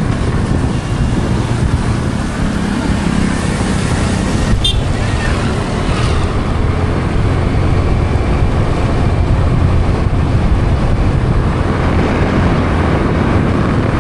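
Motor scooter running on the road, a steady engine and road rumble.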